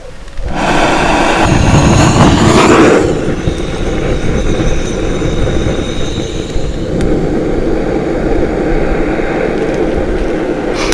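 Handheld gas torch lit to start a campfire, its flame jet running as a loud steady hiss. It swells to its loudest about two seconds in, then settles into a steady burn.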